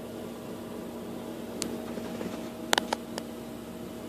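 A steady mechanical hum with two steady tones in it, broken by a handful of short sharp clicks a little after halfway.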